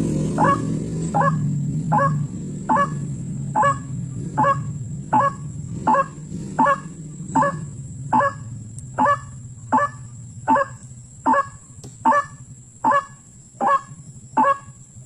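White-breasted waterhen calling: a short, harsh call repeated at an even pace, a little faster than one per second, about twenty times. A low rumble underneath fades out over the first few seconds.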